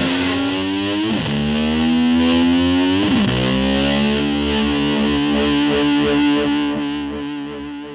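Rock music: a distorted electric guitar holds long sustained notes, swooping in pitch about one and three seconds in, then lets a single note ring and fade out near the end.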